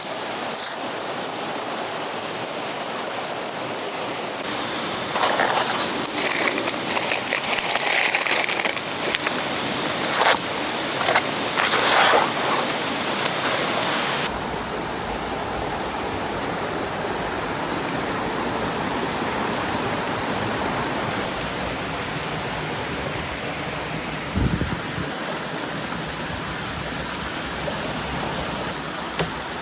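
Steady rushing of a river flowing close by. For several seconds in the first half, a run of clicks and knocks from objects being handled sits over it, and a single dull thump comes near the end.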